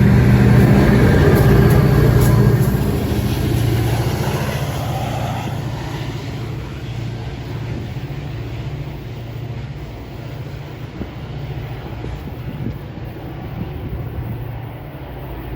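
Metra commuter train's diesel locomotive running past, its engine note loud at first and fading steadily as it draws away, with a brief rising whine a few seconds in.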